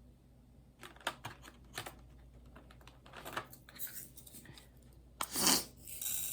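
Scattered small clicks and short rustles of plastic as a diamond painting canvas is handled and worked, with one louder rustle about five seconds in.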